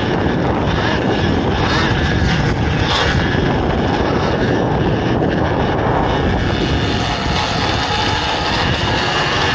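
Dirt bike engines running steadily on a motocross track, a continuous drone with no clear break.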